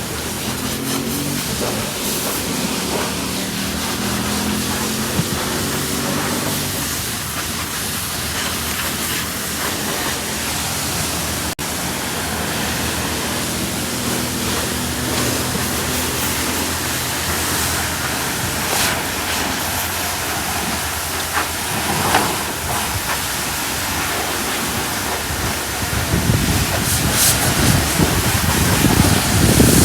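Steady hiss of water spraying at a car wash, growing louder and rougher near the end.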